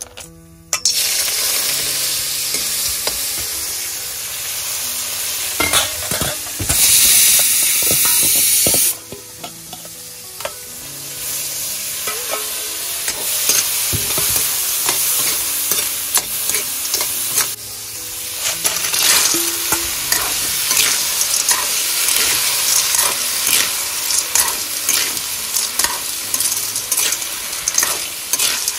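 Food frying and sizzling in hot oil in a metal wok, loudest for about two seconds around a quarter of the way in. After a brief dip, river snails in their shells are stirred through the oil with a metal ladle, with frequent sharp clicks of shell and metal over the sizzle.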